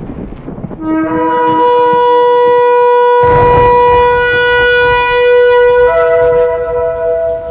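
A shofar (ram's-horn trumpet) sounding one long blast. It starts on a short low note about a second in, jumps up, and holds steady for about six seconds before fading near the end.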